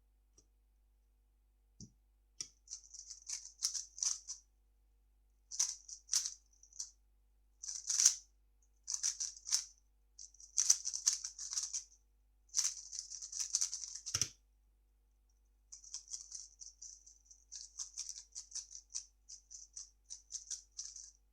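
A 3x3 speedcube's plastic layers being turned in fast, clicky bursts with short pauses between them, ending in a thump about 14 seconds in. After a brief pause the rapid turning starts again.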